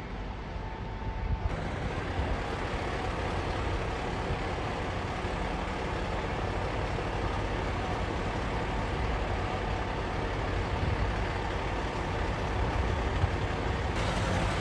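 Heavy diesel engines of fire engines running steadily, a low rumble with the surrounding street noise.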